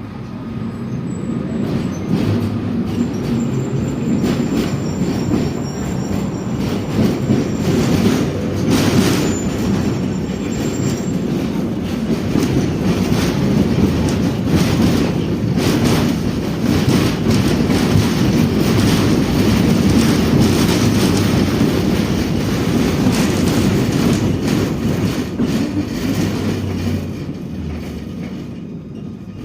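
Tatra-Yug K1 tram running along its track: the noise rises as it gets going, holds as a steady rumble of motors and wheels with a few sharp clicks of rail joints, then dies away near the end as it slows.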